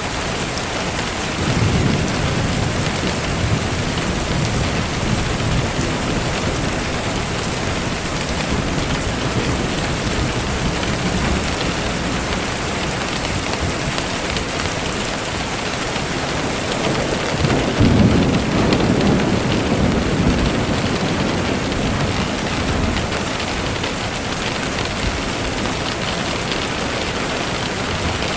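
Steady rain falling, with two low rolls of thunder: one about a second and a half in, and a louder one about 18 seconds in that rumbles on for a few seconds.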